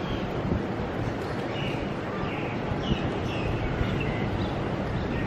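Birds chirping in short, scattered calls that slide downward in pitch, over a steady low background hum.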